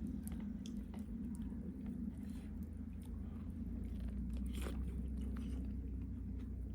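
A person chewing and eating food close to the microphone, with soft scattered clicks and a steady low rumble underneath.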